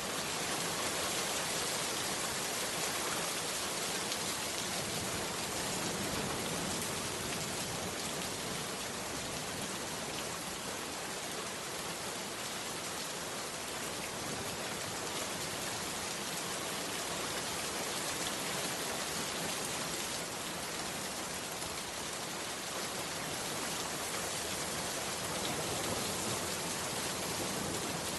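Heavy rain falling steadily, an even dense hiss of drops with no breaks.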